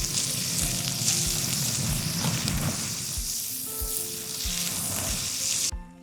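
Food sizzling in a hot frying pan, a dense crackling hiss that stops abruptly near the end.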